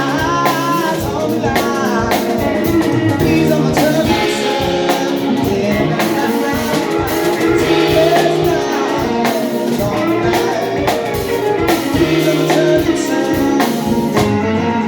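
A blues-rock band playing, with guitar, drum kit keeping a steady beat, and a singing voice over it.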